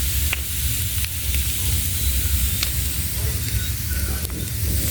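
Bonfire burning with a steady hiss and a few sharp crackling pops, over a low rumble.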